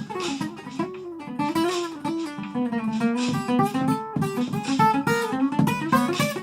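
Acoustic blues guitar playing a solo instrumental break: a run of picked single notes and strums, some notes bending in pitch.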